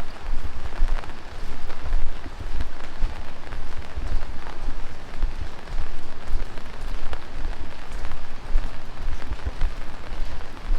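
Heavy rain falling steadily, a dense hiss of drops with many small ticks through it and an uneven low rumble underneath.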